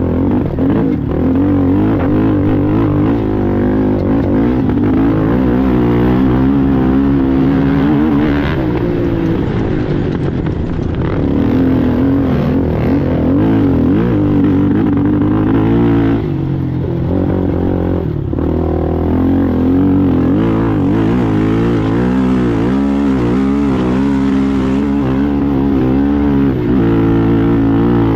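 ATV engine running hard in an off-road race, its pitch rising and falling all the way as the throttle is worked, with brief let-offs around the middle.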